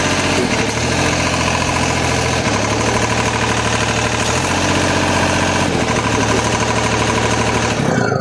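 Diesel engine of a Genie scissor lift running on freshly fitted fuel-pump plungers, its note stepping up and down several times as the lift is worked back and forth. The engine stops near the end.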